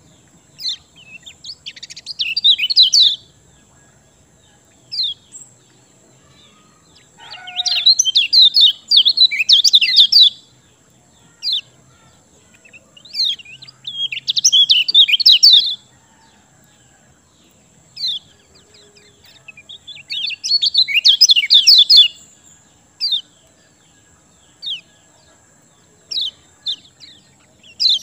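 Kecial kuning, a yellow white-eye, singing in rapid, high twittering phrases of about two to three seconds each, four times, with short single chirps in between.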